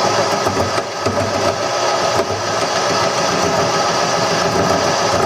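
Wood lathe running while a roughing gouge cuts into a spinning wooden handle blank, a steady rough scraping over the motor hum.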